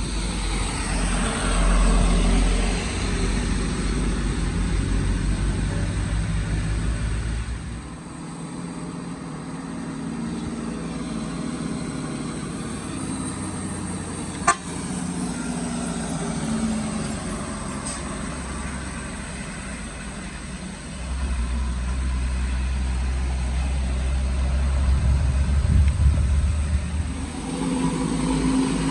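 Road vehicle engines running as vehicles pass through a bend: a low engine drone that is strong at first, drops back about eight seconds in, and builds again past the middle. There is a single sharp click about halfway through.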